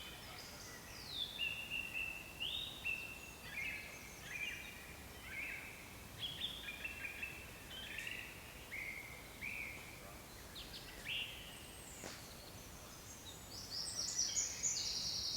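Woodland songbirds singing: a string of short whistled notes, several a second, with a burst of higher, quicker chirps near the end.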